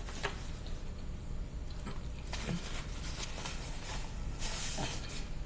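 Close-up mouth sounds of someone biting and chewing fried chicken: wet smacks and small clicks, with a short hissing rustle about four and a half seconds in.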